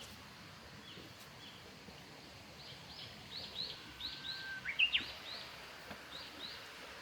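A small bird calling: a run of short, high chirps, each dropping in pitch, starting about two and a half seconds in, with a held whistled note near the middle that jumps sharply upward. Under it is a soft steady outdoor hiss.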